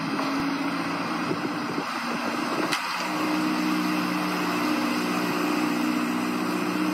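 Chevrolet C8 Corvette's 6.2-litre V8 idling steadily. About three seconds in there is a short click, and the idle note shifts slightly and settles.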